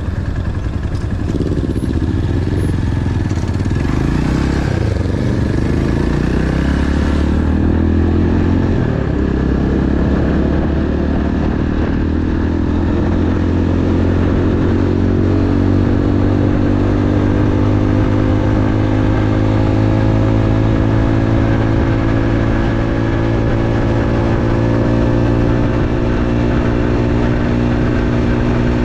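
Motorcycle engine running continuously; its pitch wavers over the first several seconds, then rises slowly and steadily as it gathers speed.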